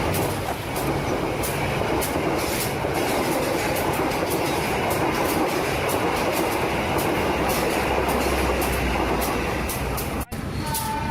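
Train running on rails: a steady rumble with irregular clicking of wheels over the track, broken by a brief cut about ten seconds in.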